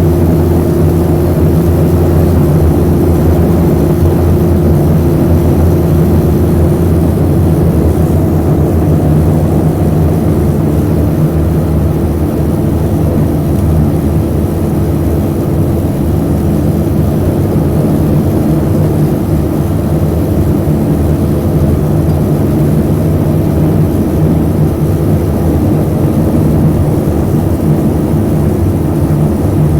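The twin Garrett TPE331 turboprop engines of a BAE Jetstream 32 running at a steady, even drone.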